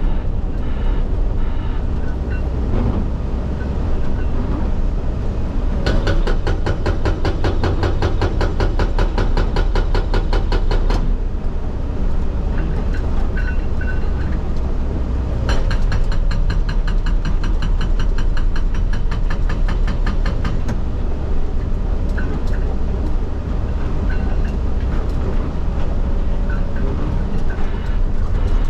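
Excavator's diesel engine running under load while its hydraulic rock breaker hammers into rock in two bursts of rapid, evenly spaced blows, each about five seconds long, heard from the operator's cab.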